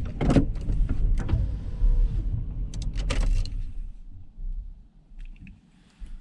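Clicks, knocks and rattles of someone moving about and getting out of a parked van, over a low rumble that dies away about four seconds in.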